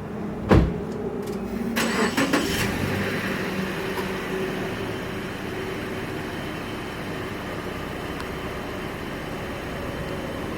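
A 2012 Subaru Impreza 2.0i's flat-four engine on a cold start. A single loud thump comes about half a second in, then the starter cranks briefly about two seconds in and the engine catches. It settles into a steady idle.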